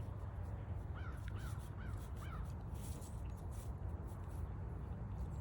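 A crow cawing four times in quick succession about a second in, over footsteps on the trail and a steady low rumble.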